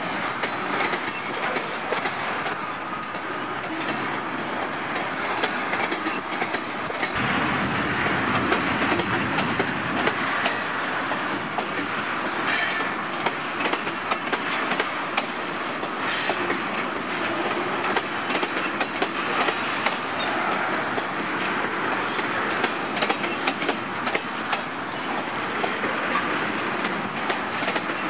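Freight train of tank cars rolling past at steady speed: a continuous rumble of wheels on rail with many quick clicks as the wheels cross rail joints.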